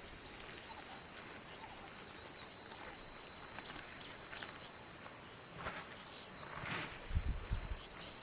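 Faint rural outdoor ambience: short high chirps come and go over a steady high-pitched drone, with a brief rustling burst and a few soft low thumps near the end.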